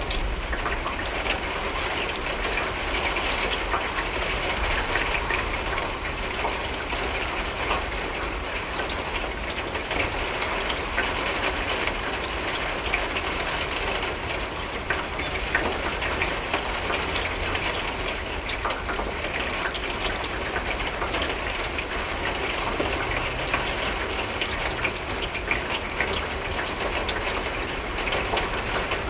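Steady rain falling on a window pane, a dense patter of many small drop ticks, with a low rumble underneath.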